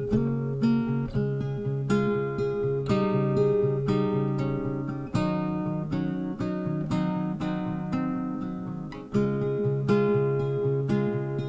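Background music: acoustic guitar picking a steady run of plucked notes.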